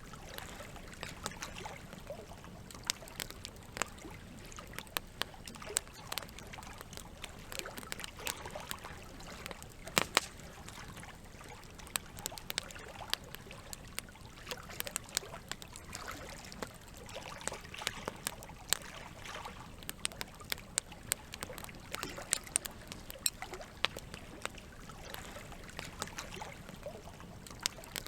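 Campfire crackling with frequent small snaps and one sharp pop about ten seconds in, over a steady trickle of running water.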